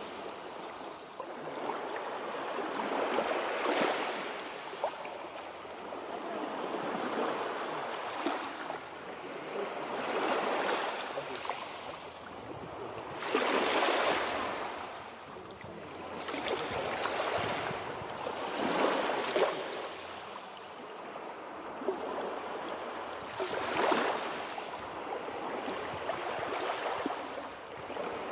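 Sea waves breaking and washing on the shore, the surf swelling and ebbing every few seconds with several louder breakers.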